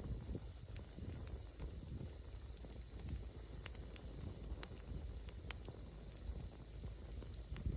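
Wood campfire in a fire pit crackling: scattered sharp pops over a low, steady rumble, with a few louder pops about midway and near the end.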